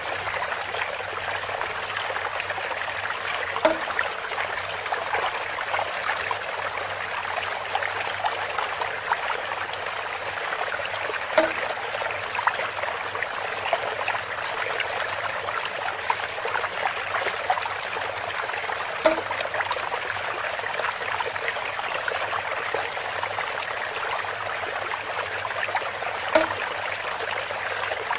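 Water trickling steadily through bamboo, with a short, hollow knock four times, about every seven to eight seconds.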